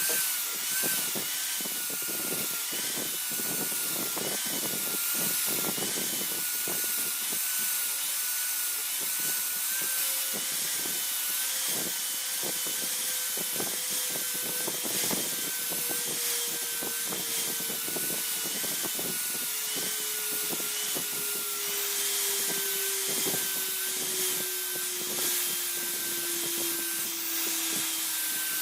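Abrasive work on a steel blade: irregular rubbing and scraping strokes over a steady, wavering high whine. A lower tone slowly falls in pitch through the second half.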